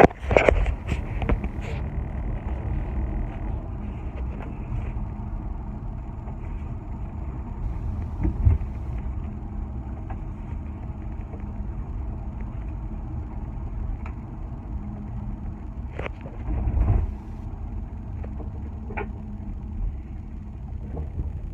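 Steady low rumble of a car driving, heard from inside the cabin, with a few short knocks and thumps.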